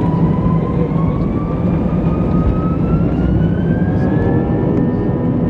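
Airbus A320's CFM56 turbofan engines spooling up for takeoff: a whine rising steadily in pitch over a steady low rumble.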